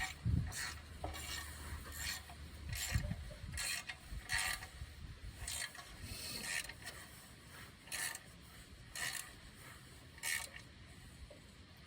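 Metal clicks and rattles from hand tools and loose nuts and bolts being handled, in irregular short bursts that thin out near the end.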